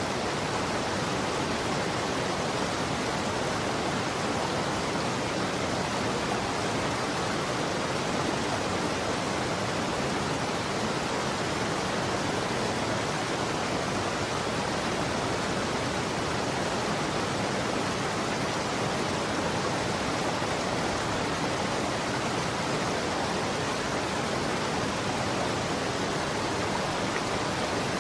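Running water flowing steadily: an even, unbroken rush with no separate splashes or drips.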